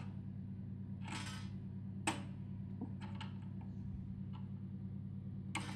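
Light clicks and taps of plastic Lego pieces being handled, about half a dozen scattered across the few seconds, over a steady low hum.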